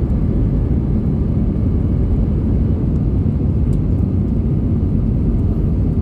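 Steady, even rumble of an Airbus A320 airliner.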